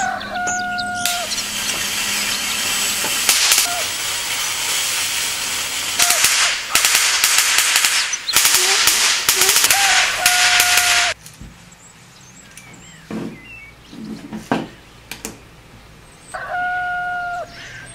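A homemade ion plasma thruster's high-voltage corona discharge gives a loud, steady crackling hiss for about ten seconds, then cuts off suddenly. After that come a few light handling knocks. Short, steady whistle-like tones sound near the start, around ten seconds in and near the end.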